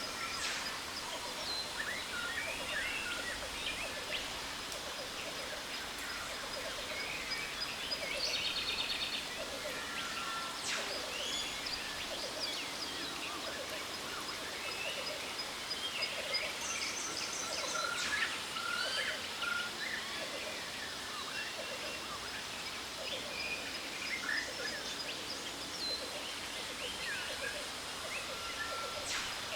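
Jungle ambience: many birds chirping and calling over the steady rush of a waterfall, with a thin, steady high-pitched whine running underneath.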